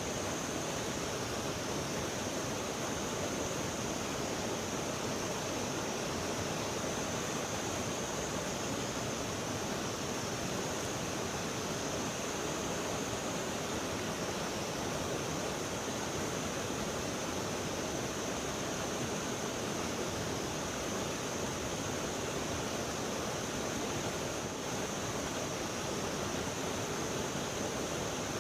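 River water rushing steadily, an even noise with no breaks, with a thin, steady high-pitched hiss above it.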